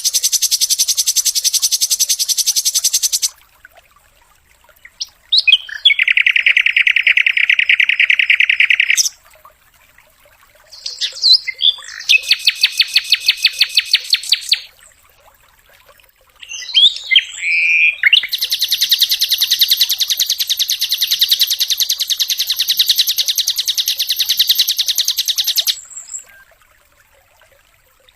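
A sikatan (flycatcher) singing rapid, machine-gun-like trills in bursts several seconds long, with short pauses between them. Each burst sits at a different pitch. A few short call notes lead into the last and longest trill.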